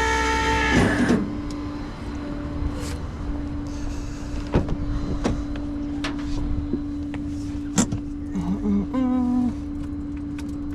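A flatbed tow truck's loading gear whines with a strong, many-overtoned motor note that stops about a second in, its pitch sagging as it winds down. A steady hum carries on after it, with scattered clanks and clicks of metal.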